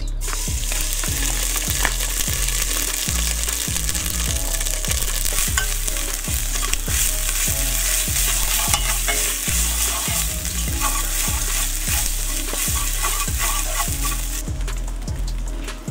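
Green herb paste sizzling as it fries in hot oil in an aluminium pot, stirred and scraped with a metal spatula. The sizzle drops away near the end.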